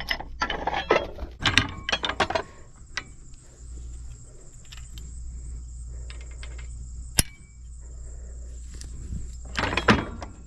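Insects chirring steadily in the background over a low steady rumble, with scattered knocks and clatter of handling, and one sharp metallic clink that rings briefly about seven seconds in.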